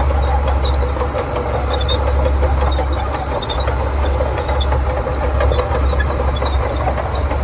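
Diesel engine of a Shantui DH17C2 bulldozer running steadily with a deep low drone, with scattered faint high clicks over it.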